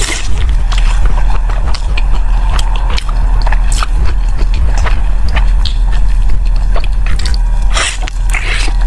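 Close-miked biting and chewing of a sticky glutinous-rice zongzi: many short wet mouth clicks over a steady low hum.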